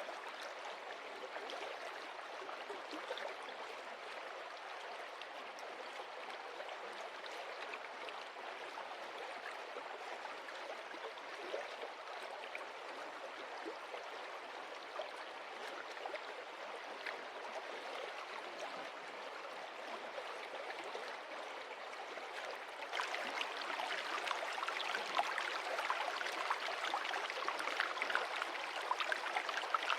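Stream water running over stones, a steady rush with many small splashes. About 23 seconds in it turns suddenly louder and brighter.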